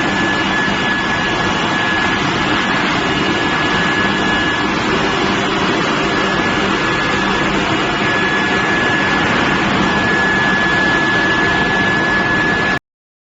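Steel billet induction heating furnace line running: a steady, loud industrial din with a constant high whine over it. It cuts off suddenly near the end.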